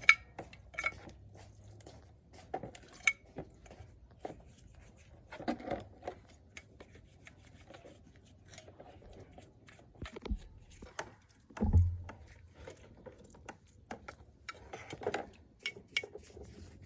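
Small metal parts and tools clinking and knocking as they are handled, in scattered irregular strikes, with one heavier thump about twelve seconds in.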